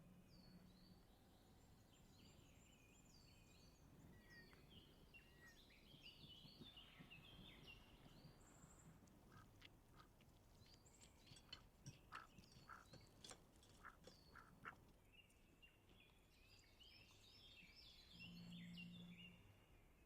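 Faint songbirds chirping and trilling, with a run of light, sharp taps or clicks in the middle and a brief low hum near the end.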